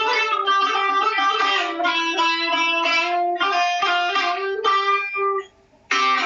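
Buzuq, a long-necked Lebanese lute, playing a plucked melody of quick single notes. The playing breaks off briefly about five and a half seconds in, then comes back in at full strength.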